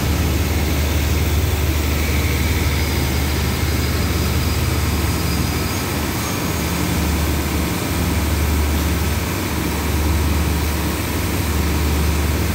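Diesel passenger train's engines running with a steady low hum as the train rolls slowly along the platform and comes to a stop, with a faint high squeal a few seconds in.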